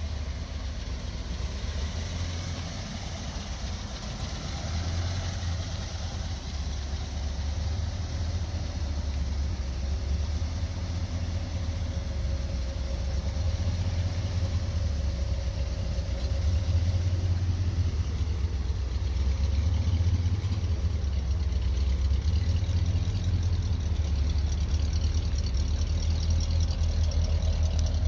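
1955 Ford Thunderbird's engine idling steadily with a low rumble, growing gradually louder.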